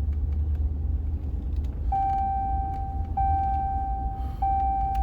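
Road and engine rumble inside a moving truck's cab. From about two seconds in, a steady high electronic tone sounds in repeated stretches about a second and a quarter long, each starting again after a very short break.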